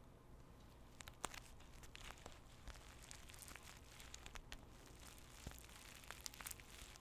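Faint crinkling and crackling of tea bags being handled, with many small sharp crackles scattered irregularly from about a second in.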